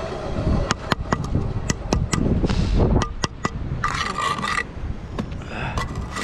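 Bricklaying work with a trowel: scraping of mortar and a run of sharp taps of steel on brick, the taps coming irregularly and thickest in the first half.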